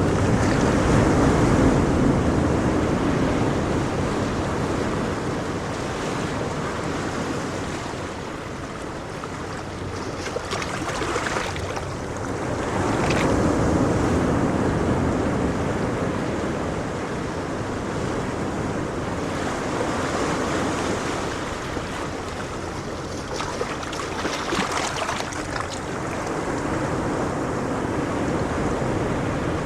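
Ocean waves washing onto a shore, swelling and ebbing in slow surges several seconds apart, with some wind rumble on the microphone.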